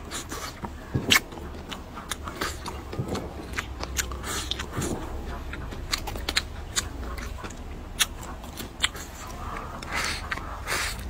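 A man chewing and biting mouthfuls of braised meat close to the microphone: wet mouth noises with frequent sharp smacks and clicks, and a louder stretch of biting near the end.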